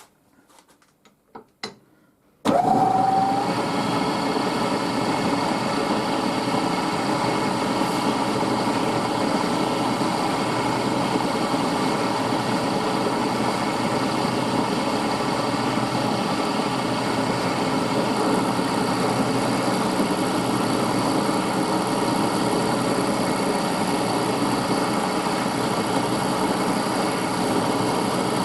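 A few light clicks, then a milling machine switches on about two and a half seconds in: a brief rising whine as the spindle spins up, then it runs steadily, a machine taking a light test cut in a brass part on a rotary table.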